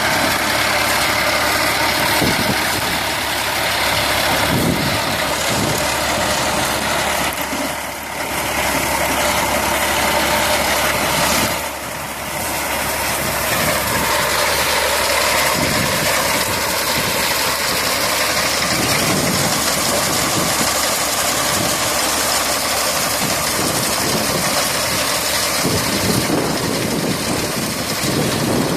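Tractor engine running steadily, with two brief dips in level about a third of the way in.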